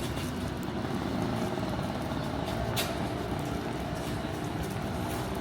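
Busy city street ambience dominated by road traffic, with vehicle engines running steadily and one short sharp click about three seconds in.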